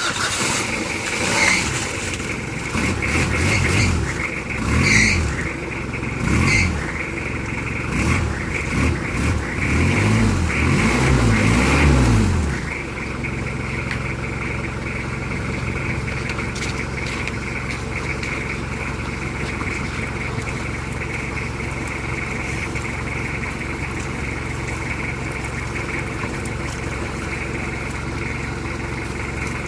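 Mitsubishi Adventure engine revved repeatedly in short rising-and-falling bursts for the first twelve seconds or so, then settling to a steady idle.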